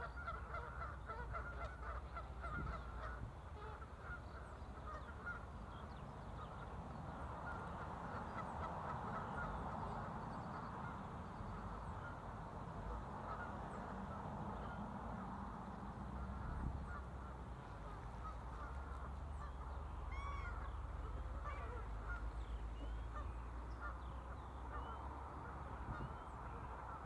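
A flock of waterfowl calling continuously, many overlapping calls at once, with a steady low rumble underneath. A few higher, sliding calls from other birds cut in about twenty seconds in.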